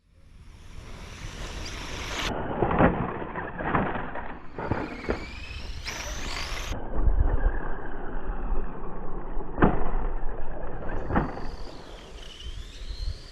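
Schumacher Bosscat electric RC off-road buggies running on a dirt track: a motor whine that rises and falls as the cars speed up and pass, over a steady rumbling noise. Several sharp knocks come through, a few near the start and two more further on, from the buggies hitting and landing on the track.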